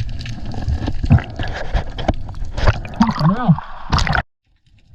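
Water gurgling, sloshing and splashing close to the microphone, with many small clicks and a short wavering pitched sound about three seconds in. It cuts off abruptly just after four seconds.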